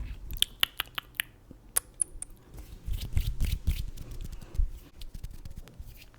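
Makeup items handled close to the microphone: a run of sharp clicks and taps in the first couple of seconds, then a softer, denser stretch of handling noise from about three seconds in.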